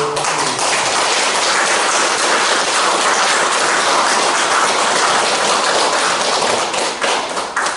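Audience in a meeting room applauding, a steady round of clapping lasting about seven and a half seconds that dies away near the end.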